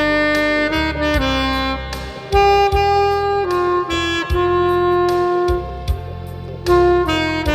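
Saxophone playing a slow, lyrical melody in long held notes that step up and down in pitch, over a low sustained accompaniment.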